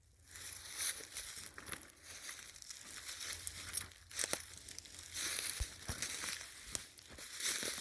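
Footsteps crunching and crackling through dry leaf litter on frozen ground, in an irregular run of louder steps.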